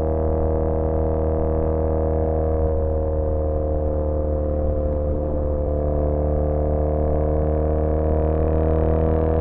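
2013 Triumph Bonneville T100 parallel-twin engine running through British Customs Sleeper Pro exhausts at a steady cruise, droning evenly. Its pitch dips a little midway, then climbs slowly as engine speed rises.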